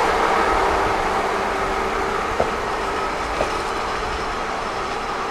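Kiha 40 diesel railcar running along the track: a steady rumble with a humming drone that slowly eases off. Two wheel clicks over rail joints come about a second apart near the middle.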